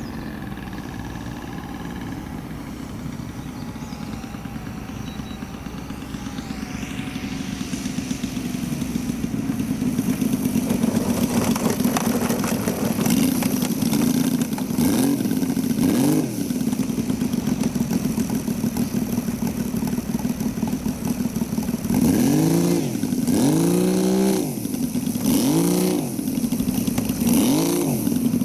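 Saito three-cylinder gasoline radial engine of a radio-controlled scale Zero fighter running in flight. Its note grows louder about a third of the way in, then swings up and down in pitch several times in the second half as the plane passes and changes throttle.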